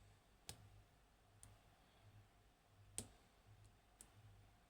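Faint, sharp clicks of a lock pick working the pins of a 5-pin ABUS pin-tumbler cylinder in a padlock during single-pin picking, about four clicks spread a second or so apart, the loudest about three seconds in.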